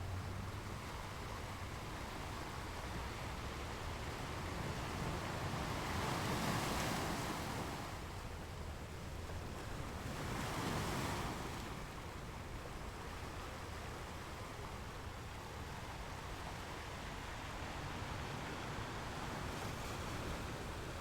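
Ocean waves washing onto a shore, a steady rush of surf with two waves swelling louder, about a third and half of the way in.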